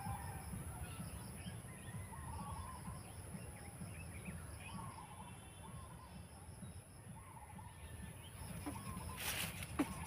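Faint short bird calls every second or two over a low rumble, with a brief rustle or knock near the end.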